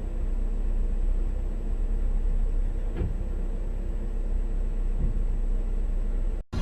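A car driving: a steady low rumble of engine and road noise, with a couple of faint knocks. The sound cuts off abruptly near the end.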